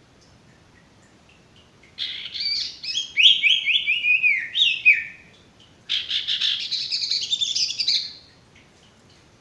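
Sirtu bird calling: a lure recording of the female call that draws in males. A quick run of falling whistled notes about two seconds in, then, after a short pause, a dense scratchy chatter lasting about two seconds.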